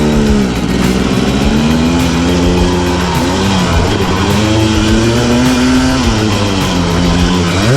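Dirt bike engine running under a rider, its pitch holding steady for stretches and dropping and rising again several times as the throttle is eased and opened.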